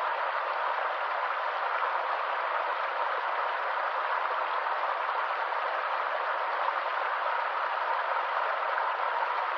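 Small stream running steadily, a continuous even rush of water with no deep rumble.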